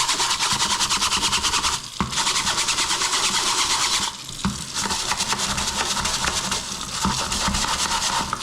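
Heavy-duty brush scrubbing a dishwasher filter wet with spray cleaner: rapid back-and-forth bristle strokes, pausing briefly twice.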